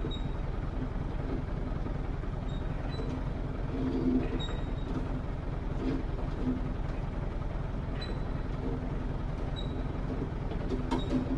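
A large engine running steadily, with short irregular surges of sound over the drone every second or two.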